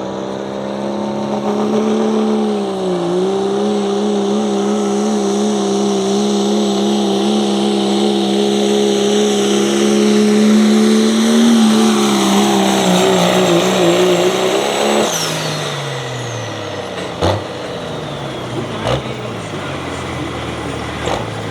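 A pulling vehicle's engine held at full throttle down the track, with a brief sag in pitch about three seconds in and the revs pulled down under load from about thirteen seconds. The throttle is cut about fifteen seconds in and the engine winds down, followed by three sharp cracks.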